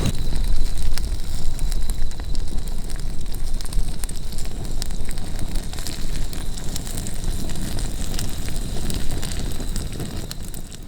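Wood campfire crackling, with frequent small pops over a low rumble, fading out near the end.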